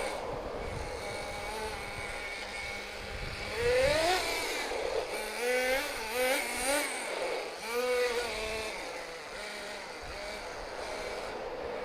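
SH .18 two-stroke nitro engine of a Tamiya NDF-01 RC truck, its mixture just richened a little. It runs steadily, revs up sharply about four seconds in, and blips up and down several times before settling back to a steady drone.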